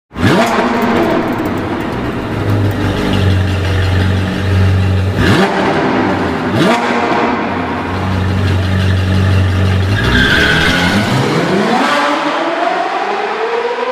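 Sports-car engine sound effect, revving: a steady low drone, two quick upward revs about halfway through, then a long rising rev near the end.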